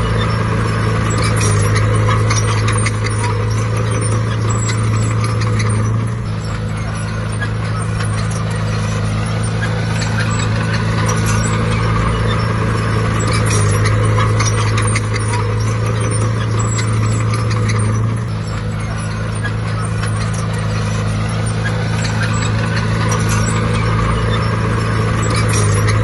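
Bulldozer's heavy diesel engine running steadily, its note and level shifting down and back up a few times.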